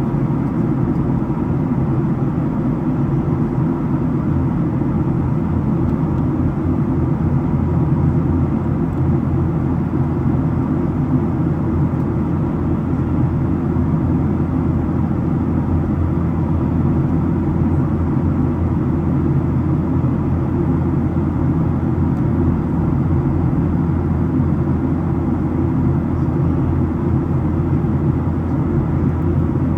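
Steady low cabin drone inside a Boeing 737-700 airliner in flight: its CFM56-7B turbofan engines and the airflow over the fuselage, unchanging throughout.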